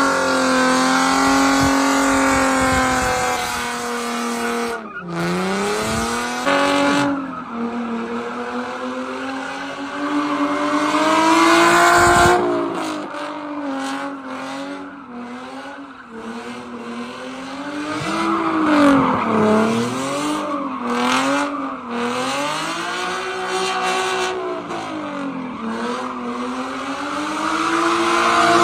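Car engine held at high revs, its pitch repeatedly rising and falling as the throttle is worked, with tyre squeal at times, as in a drift or burnout display.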